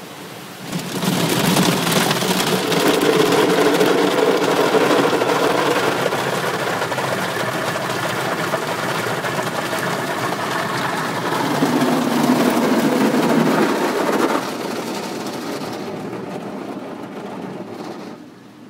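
Automatic car wash at work on the car, water spray and machinery drumming on the body, heard from inside the car. It starts about a second in, stays loud for most of the time, then drops off and fades near the end as the pass moves on.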